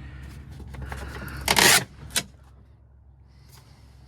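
Plastic trim on a GMC truck door being pulled off by hand: scraping and rustling, then a loud short crack about a second and a half in and a sharp click half a second later.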